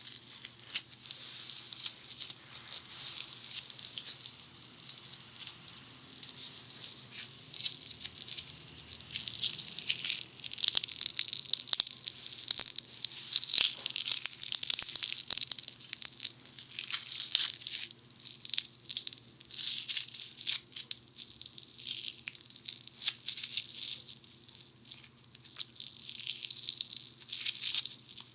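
Funny Foam squished and worked against the ear microphones of a binaural dummy head: a dense, close crackle of tiny pops and crinkles. It grows louder through the middle and swells again near the end.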